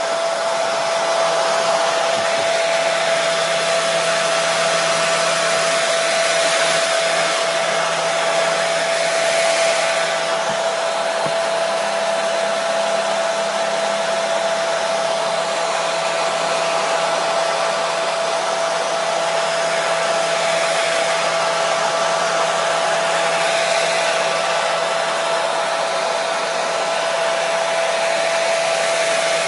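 Hair dryer running continuously: a steady rush of air with a constant motor whine at one pitch.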